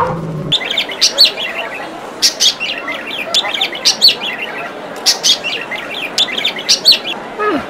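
Birds chirping in quick runs of short, high chirps, several times over.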